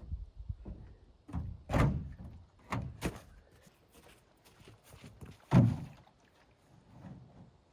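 Camp gear being handled and set down: a series of thunks and knocks, about five, with the loudest nearly three-quarters of the way through.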